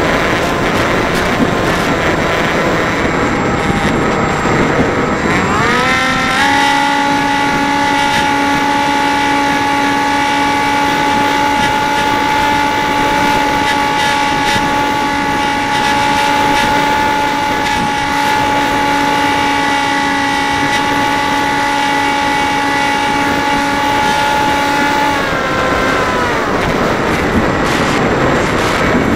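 Electric motor and propeller of a Dynam Hawk Sky RC plane whining in flight over steady wind buffeting the microphone. About six seconds in the motor is throttled up to a higher, steady pitch, held there, then throttled back down near the end.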